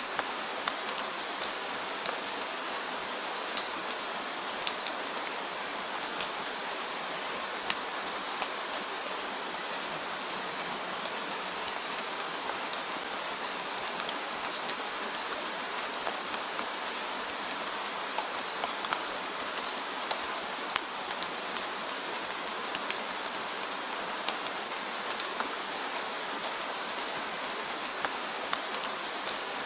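Steady rain falling on a surface, an even hiss with many distinct drops ticking through it.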